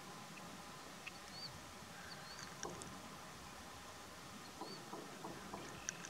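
Faint outdoor background hiss with a few short, high, arched bird chirps spread through it and light ticking rustles in dry grass near the end.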